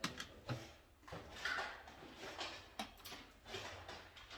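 Scattered light clicks and rustling, like small objects and parts being handled on a work surface.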